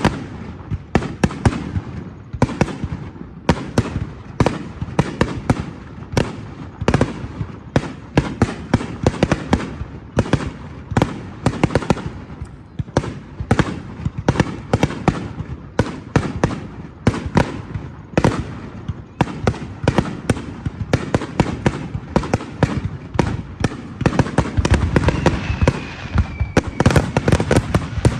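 Fireworks display: a dense, continuous barrage of shell bursts and bangs, several a second, with a thin, slowly falling whistle near the end.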